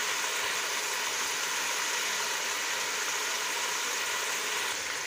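Chicken pieces frying in hot oil in a pot over a medium flame: a steady sizzle.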